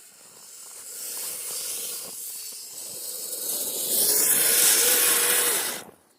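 Electric Kyosho Blizzard RC tracked snow vehicle driven through deep snow: its tracks churn and throw snow in a hissing rush, with a faint motor whine. It builds up, is loudest in the second half, then cuts off suddenly as the throttle is let off.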